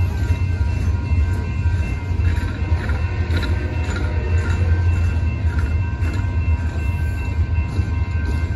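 Freight train cars rolling through a grade crossing with a heavy, continuous low rumble, while the crossing signal bells ring on as steady high tones above it.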